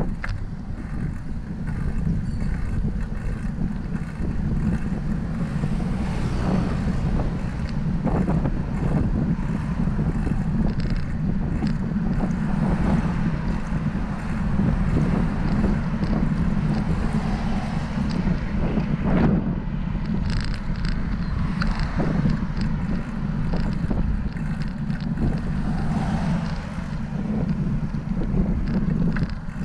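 Wind buffeting the microphone of a camera on a moving bicycle: a steady low rumble, with scattered short knocks and clicks.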